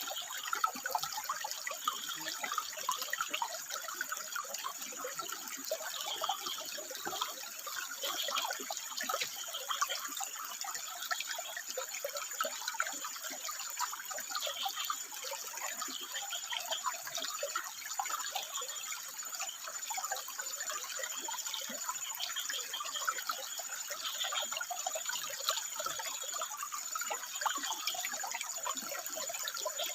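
Water trickling and splashing over rocks, a steady busy flow.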